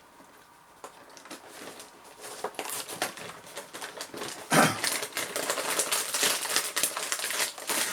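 Plastic cracker packet crinkling and rustling as it is handled and crackers are taken out: a dense run of crackles, with one louder burst about four and a half seconds in.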